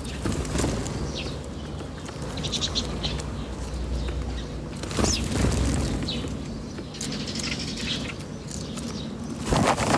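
Several small birds giving short, scattered chirps over a steady low rumble, with a louder rushing burst near the end.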